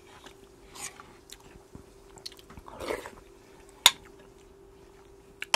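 A man chewing mouthfuls of salmon larb with rice, heard close up, with a few soft clicks and one sharp clink of the spoon against the bowl a little before four seconds in.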